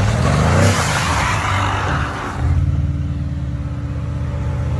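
Car engine running loudly at high revs, starting abruptly. A loud rushing noise sits over it for the first two seconds or so, then the engine carries on alone as a steady low rumble.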